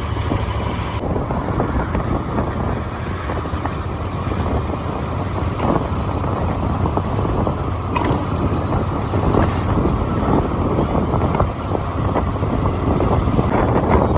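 Motorcycle riding at road speed: steady engine and road noise with wind buffeting the microphone, and a few brief clicks.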